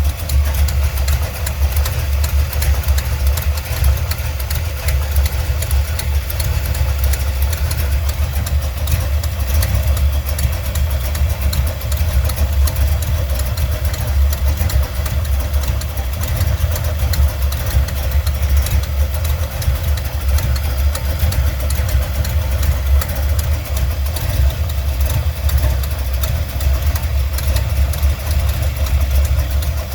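Buick 455 Stage-1 V8 idling steadily with a fast, even ticking over the engine sound. The owner ties the tick to the distributor's position.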